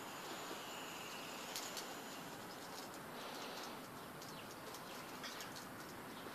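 Faint outdoor background hiss with a few brief, high chirps of small birds.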